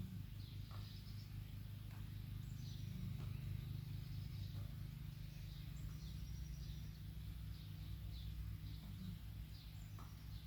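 Faint birds chirping again and again over a steady low hum, with a few soft taps.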